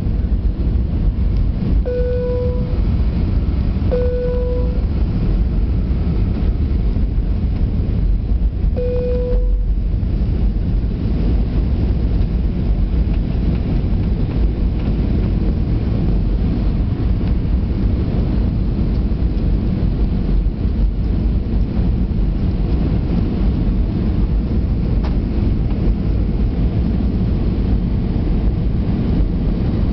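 Steady low rumble of an Airbus A320-200's engines and airflow inside the cabin, with three short steady tones about two, four and nine seconds in.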